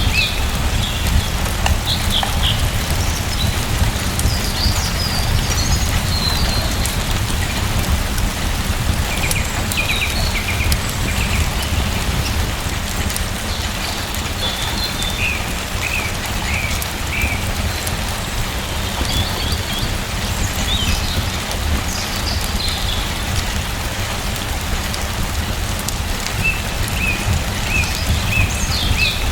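Steady rain falling, with small birds chirping in short scattered calls now and then.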